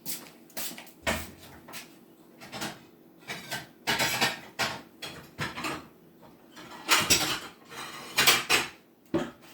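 Dishes and cutlery being handled: an irregular run of clinks, knocks and clatter, loudest around four, seven and eight seconds in.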